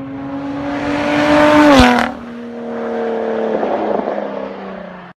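Lotus Exige Sport 380's supercharged 3.5-litre V6 driving by at speed. The engine note climbs and grows louder, peaks and drops sharply in pitch about two seconds in, then a second approach follows on a steadier, slowly falling note that builds in loudness before cutting off suddenly.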